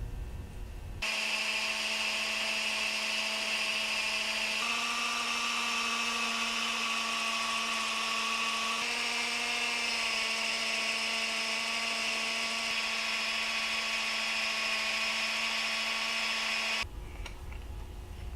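A high-speed electric power tool runs steadily, cutting a way cover. It starts about a second in, shifts pitch slightly a couple of times, and cuts off shortly before the end.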